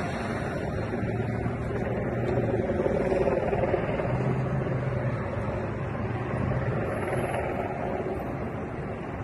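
Vehicle engines running steadily under outdoor noise, with a low hum that shifts slightly higher about four seconds in.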